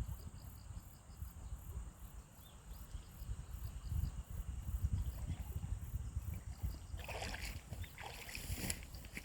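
Insects, likely crickets, chirping in an even, repeating pulse over a low rumble. A burst of rustling comes about seven seconds in.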